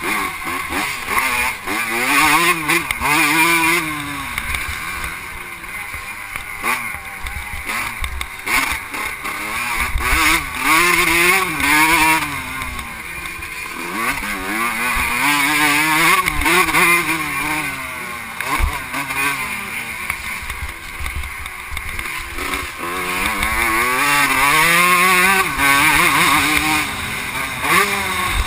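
Vintage 125cc two-stroke motocross bike engine under race riding, revving up and falling off again and again, its pitch climbing and dropping several times as the rider accelerates and backs off.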